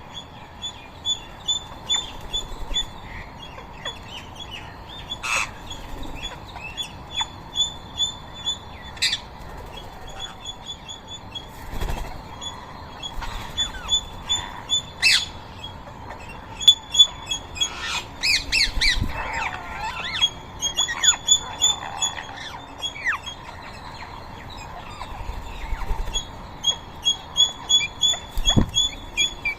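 A flock of birds calling: runs of rapid, repeated high chirps throughout, broken by several louder harsh squawks from rose-ringed parakeets.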